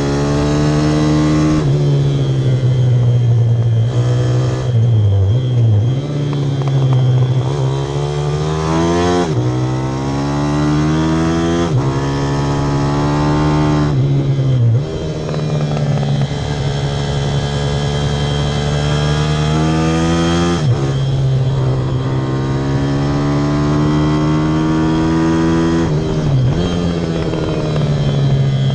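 Pit bike's small single-cylinder engine running hard, its pitch climbing under throttle and then dropping sharply several times as it shifts gear or rolls off for corners.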